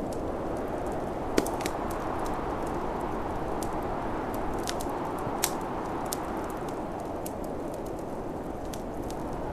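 Wood fire crackling, with irregular sharp pops and snaps, the loudest about one and a half seconds and five and a half seconds in, over the steady rushing of snowstorm wind.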